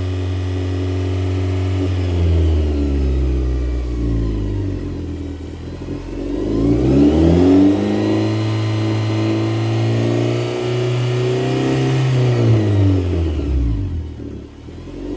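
2011 Kia Sorento's 2.4-litre four-cylinder engine being revved: held at raised revs, easing back, revved up again about six seconds in and held, then dropping back toward idle near the end.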